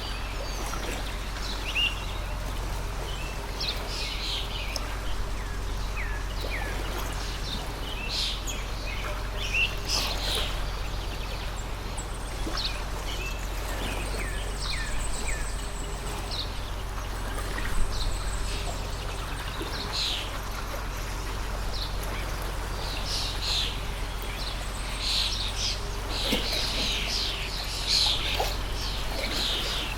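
Small birds chirping and calling in quick, short notes over the steady rush of a stream; the chirping grows busiest near the end.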